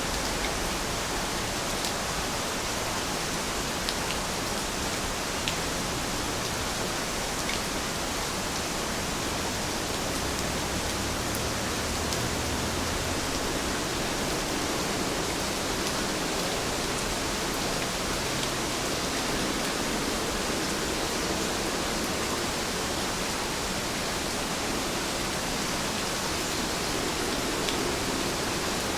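Heavy rain falling steadily, a dense even hiss with a few faint drop ticks.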